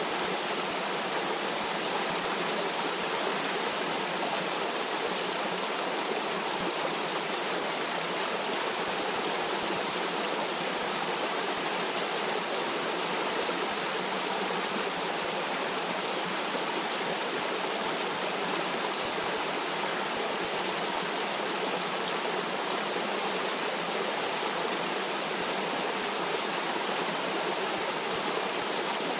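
Stream water flowing in a steady, even rush, with no change or separate events.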